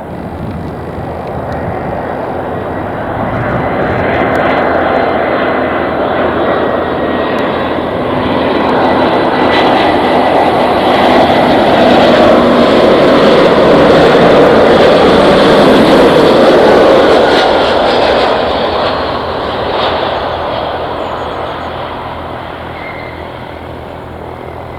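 Airbus A319 jet airliner on landing approach, its engine noise with a thin high whine growing louder as it comes in, loudest about halfway through, then fading away.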